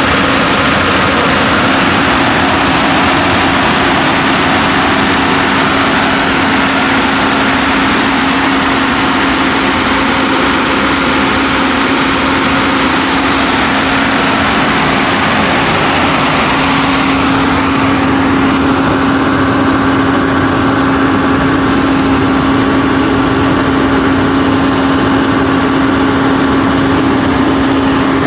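John Deere 6068HF285 six-cylinder diesel engine of a 100 kW generator set running at a steady speed, with a constant hum. The higher hiss in the sound drops away about two-thirds of the way in.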